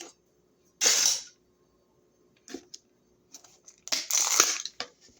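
A knife cutting through a crisp raw vegetable, with a loud crunching cut about a second in, a short one midway and a longer crunching run near the end.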